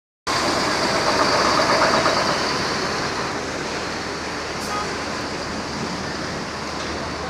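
Large bus engine running among vehicle noise. It is loudest for the first couple of seconds, then settles into a steady drone.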